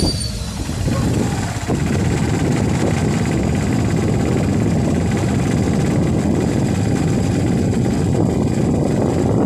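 Motorcycle engine of a motorcycle-and-sidecar tricycle running steadily while driving, mixed with road noise.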